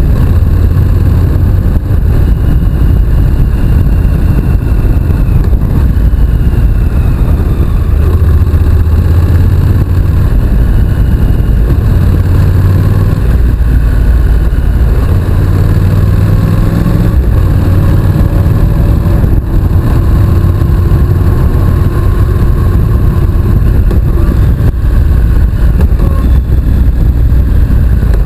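Honda NC750X's parallel-twin engine running as the motorcycle is ridden, its pitch rising and falling gently with the throttle, under a loud, steady rumble of wind on the microphone.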